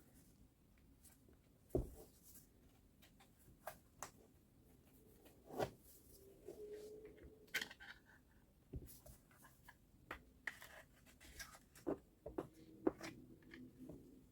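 Faint, scattered clicks and knocks of tools and small metal and plastic parts being handled during disassembly of a reciprocating saw, a dozen or so at irregular intervals.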